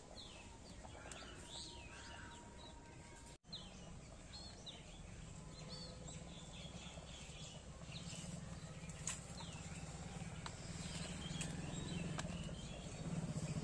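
Faint birds chirping and twittering, with a low steady hum underneath that grows a little louder toward the end.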